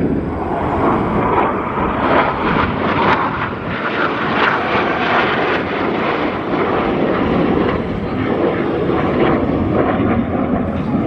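Jet noise from Blue Angels F/A-18 Super Hornets' twin turbofan engines passing in flight: a loud, steady rushing noise with a crackle that is strongest a few seconds in.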